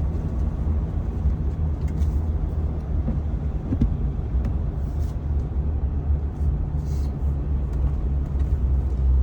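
Ford F-450 Super Duty pickup driving through deep snow, heard from inside the cab: a steady low rumble of its Power Stroke diesel engine and tyres.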